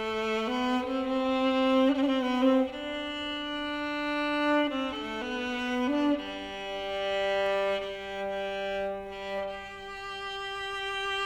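Background music: a slow piece for bowed strings, led by a violin, playing long held notes with a second lower line beneath, changing note every second or two.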